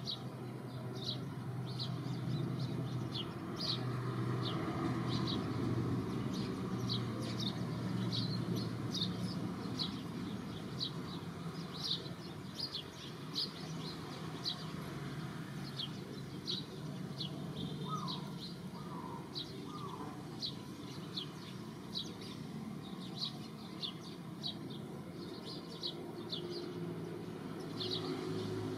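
Small birds chirping outdoors: short, high chirps repeat irregularly about once or twice a second over a steady low background rumble. Three short, lower calls come about two-thirds of the way through.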